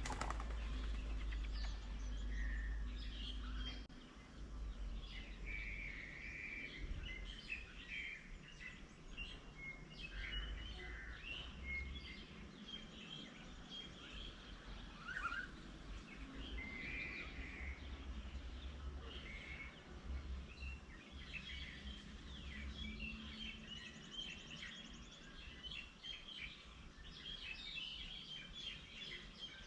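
Outdoor birdsong from several birds, with many short chirps and calls overlapping throughout. A low rumble sits under them, strongest in the first few seconds and again midway.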